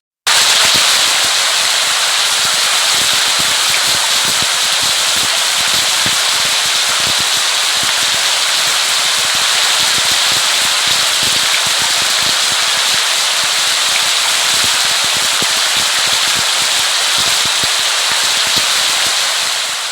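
Steady rain: a dense, even hiss full of fine drop ticks, starting abruptly after a brief gap and fading out near the end.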